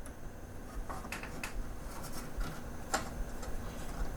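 Scattered light clicks of metal tweezers against the plastic mechanism of a CD changer as the old drive belts are picked out.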